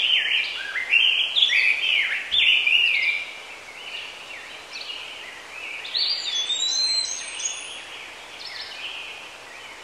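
Songbirds singing: a string of loud, quick whistled phrases that sweep up and down, loudest in the first three seconds, with higher, thinner notes joining around the middle.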